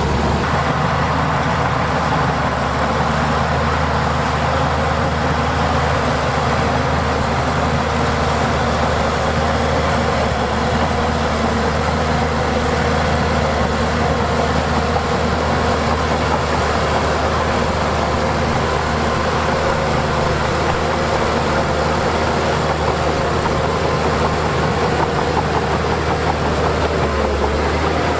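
Diesel engine of heavy earthmoving machinery running steadily under load, with a constant low drone and a dense mechanical clatter over it.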